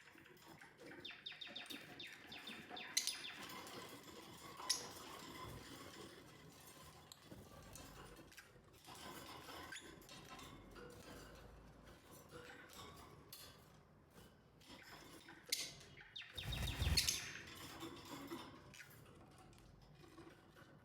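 Lovebirds chattering with rapid, squeaky chirps. A brief louder noise cuts in about three-quarters of the way through.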